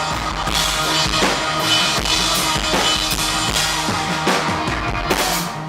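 A live band plays a loud instrumental section, driven by a pounding rock drum kit with bass drum, snare and crashing cymbals. The music breaks off right at the end.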